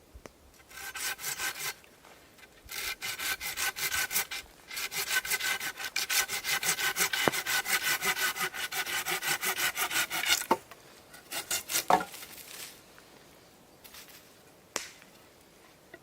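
Hand saw cutting through wood in quick back-and-forth strokes, about four a second, in three bouts, the last and longest about five seconds. A few sharp knocks follow near the end.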